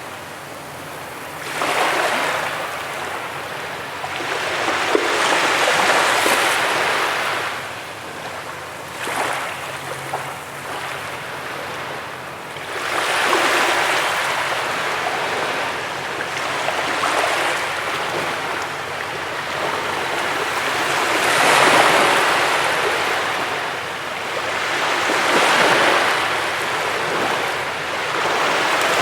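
Sea waves breaking and washing up a beach, the surf swelling and ebbing every few seconds, with surges about a second and a half in, around the middle, and again near the end.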